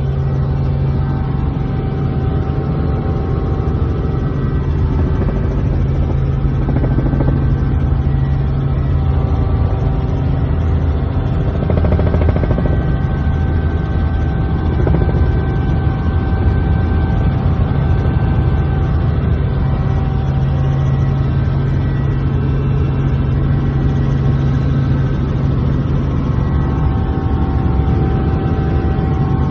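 Helicopter in flight: a steady, loud drone of engine and rotor with a strong low hum, swelling slightly now and then.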